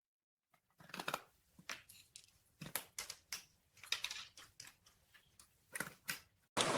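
Faint scattered clicks and scratches at irregular intervals, starting about a second in; a steady hiss comes in near the end.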